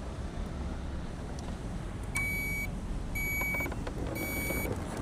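A high electronic warning beep, each about half a second long, starting about two seconds in and repeating roughly once a second over a steady low rumble.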